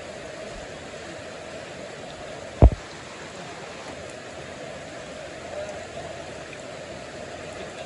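Floodwater from a creek out of its banks running steadily, with one sharp low thump about two and a half seconds in.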